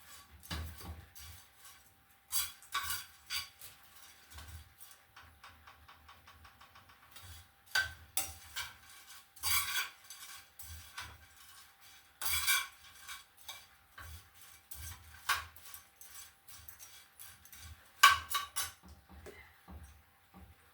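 A spoon scraping and knocking against a pan while stirring small silver fish (omena) as they dry-fry and brown, with irregular sharp clinks every few seconds.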